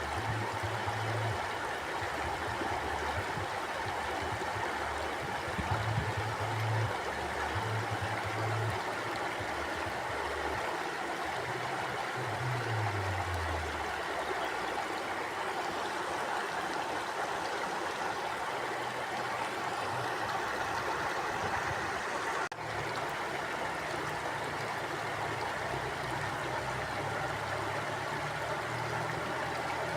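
Mountain stream flowing steadily over rocks, an even rushing of water, with a low rumble that comes and goes underneath and a momentary dip in the sound about two-thirds of the way through.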